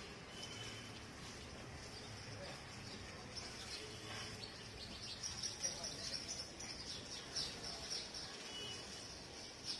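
Birds chirping: short high chirps, more frequent from about the middle on, over faint outdoor background noise.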